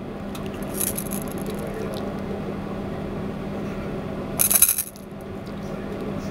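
Induction stove's fish grill running with a steady hum, interrupted by two brief metallic clinks at its vent, a faint one about a second in and a louder one near the end.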